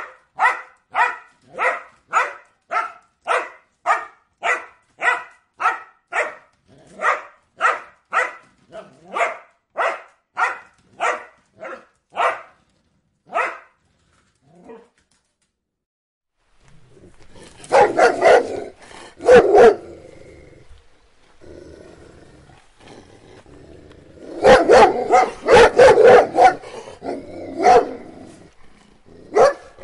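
Dogs barking. First a single steady run of sharp barks, about two a second, slows and stops after about thirteen seconds. After a brief pause, a different, noisier recording brings fast clusters of barking over background noise.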